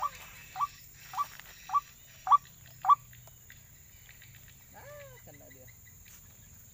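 White-breasted waterhen (ruak-ruak) calling: a run of short, harsh, arching notes about twice a second, each louder than the one before, which stops about three seconds in; a fainter call follows near five seconds.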